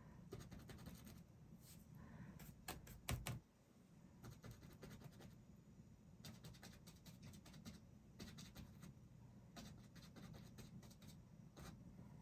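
Faint scratching and tapping of a small fan brush dabbing paint onto canvas, with a sharper double knock about three seconds in.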